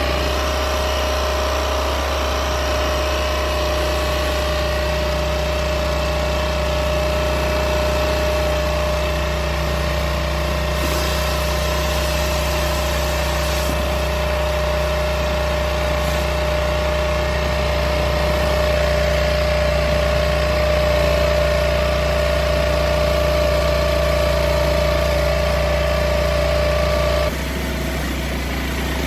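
The Westinghouse WPX3400 pressure washer's 212cc four-stroke OHV engine running steadily. About 27 s in, the sound drops slightly and changes.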